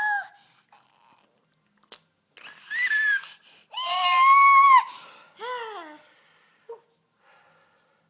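A pet bird screeching: four loud, shrill calls. A short flat one comes at the start, a short falling one a few seconds in, then a long held one and a call that sweeps down near the end.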